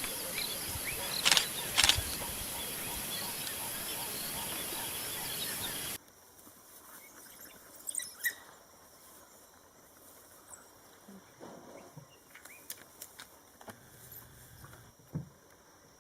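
Outdoor bush ambience: a steady high hiss with two sharp knocks about half a second apart, about a second in. Then the sound cuts to a much quieter background with scattered faint clicks and taps.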